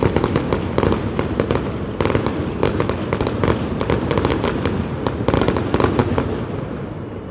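Fireworks going off in a dense, rapid crackle of pops and bangs, thinning out near the end.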